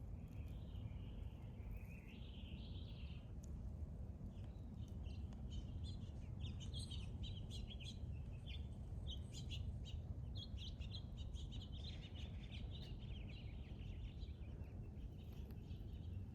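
Small birds chirping, many short high notes in quick runs that are busiest in the middle, over a steady low rumble.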